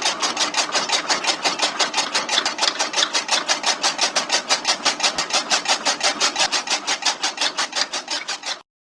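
Small motor-driven model chaff cutter running, its cutting mechanism making a rapid, even clatter of about six strokes a second. The clatter fades slightly and then cuts off abruptly just before the end.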